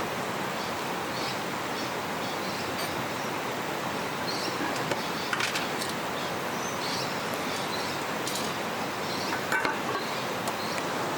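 River water flowing steadily, with faint bird chirps scattered through and a couple of soft clicks.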